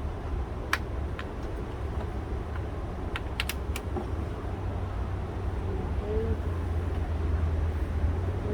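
Scattered sharp clicks and light taps of car parts being handled and fitted, several close together about three and a half seconds in, over a steady low rumble.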